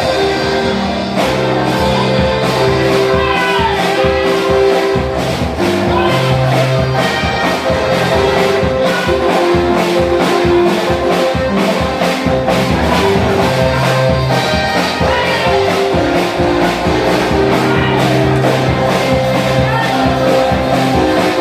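Live church band music: held keyboard chords over a steady drum beat.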